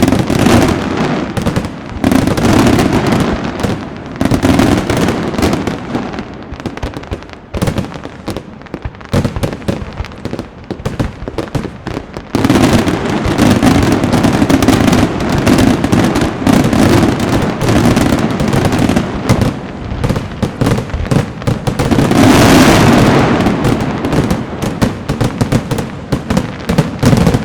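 Aerial fireworks display: a dense, continuous run of bangs and crackling, thinning somewhat from about seven to twelve seconds in, then building again to the loudest barrage a little past twenty seconds in.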